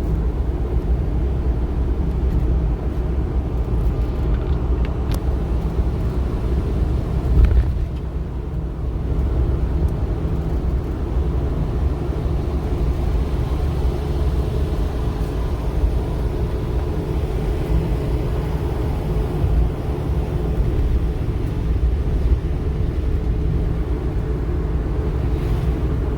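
Strong typhoon wind buffeting the microphone: a steady low rumble that flutters rapidly, with one harder gust about seven seconds in.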